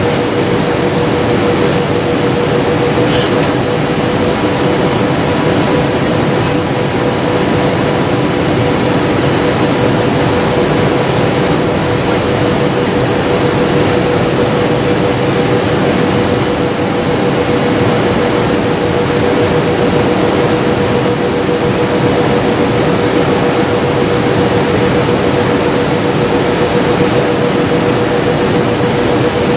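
Jet airliner cabin noise: the engines run steadily under a constant hum held at one pitch, with an even rush of air and engine noise around it, heard from inside the passenger cabin.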